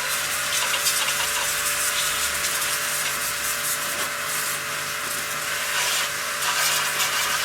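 Steady rasping, scrubbing noise of a part being cleaned by hand with a brush or abrasive, going on without a break.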